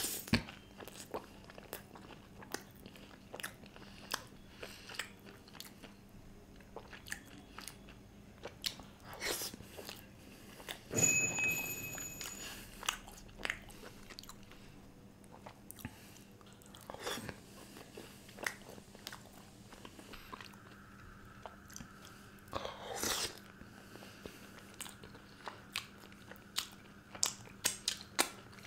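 Close-miked chewing and biting of a person eating garlic naan with butter chicken: wet mouth clicks and soft crunches at an irregular pace. About eleven seconds in comes one louder knock with a brief ring, over a faint steady hum.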